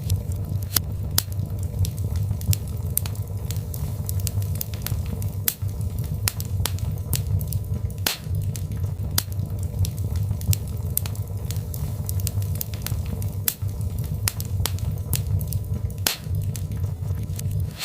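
Birch log fire crackling, with irregular sharp pops and snaps over a steady low rumble.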